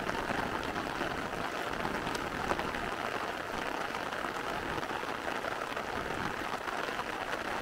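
Steady rain falling, with a few individual drops ticking.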